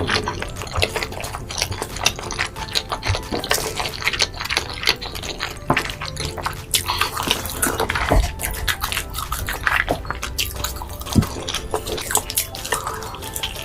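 Close-miked chewing and eating: wet mouth sounds with many irregular small clicks and crackles.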